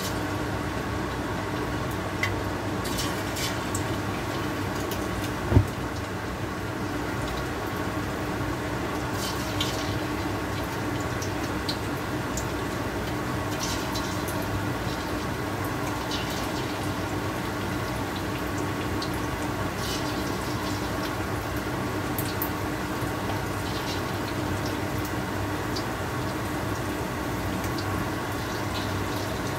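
Marinated pork strips frying in hot oil in a steel wok: a steady sizzle with scattered crackles and pops over a steady hum. A single sharp knock comes about five and a half seconds in.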